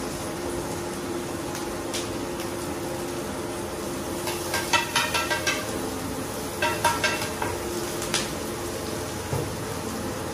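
Egg and chopped greens sizzling in oil on a large, shallow iron griddle pan. Through the middle come bursts of quick clatter from a metal spatula working the food.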